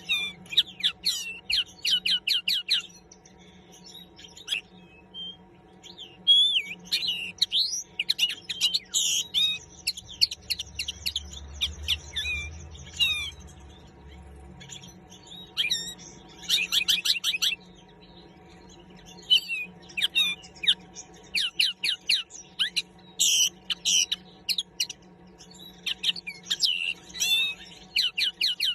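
Common linnet singing: phrases of rapid, high twittering trills and chirps, one to three seconds long, broken by short pauses.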